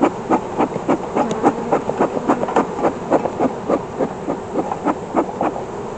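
Honeybees buzzing close around the microphone over an open hive. Many quick passes come and go several times a second.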